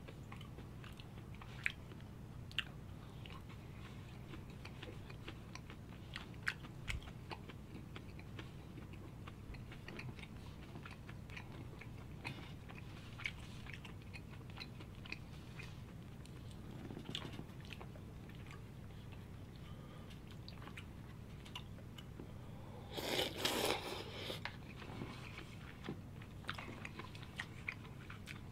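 A person chewing food close to the microphone: scattered wet mouth clicks and smacks over a steady low hum, with one short louder noise about three-quarters of the way through.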